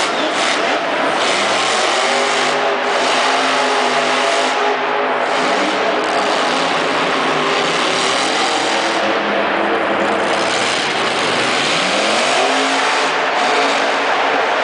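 Monster truck engine running loud and revving hard, its pitch rising and falling, with a strong climb a little past three-quarters of the way through.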